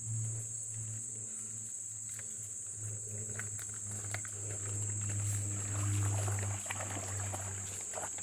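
Steady high-pitched trilling of crickets over a low steady hum, with a few faint clicks.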